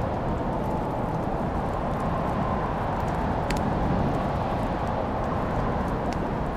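Wood fire crackling with scattered sharp pops over a steady low rushing roar, one pop standing out about halfway through.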